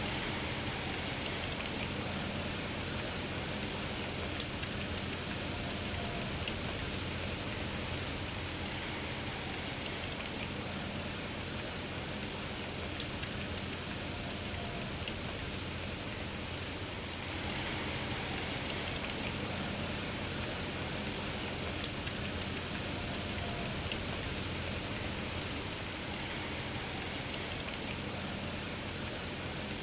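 Steady rain falling, an even hiss that swells a little about two-thirds of the way through. Three sharp, loud drop clicks stand out, about nine seconds apart.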